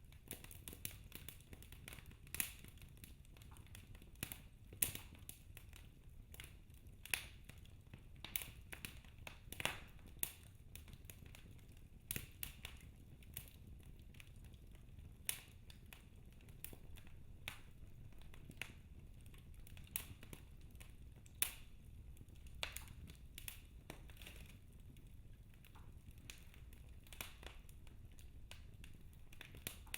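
Wood fire in a fireplace crackling: irregular sharp pops and snaps from the burning logs, a few louder ones, over a low steady rumble of the flames.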